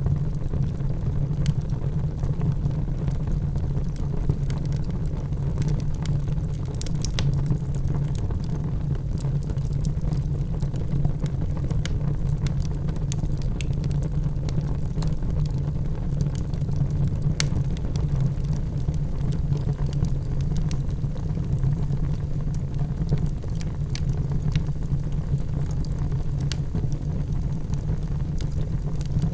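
Wood fire burning in a fireplace: a steady low rumble of the flames with scattered sharp crackles and pops, a few of them louder.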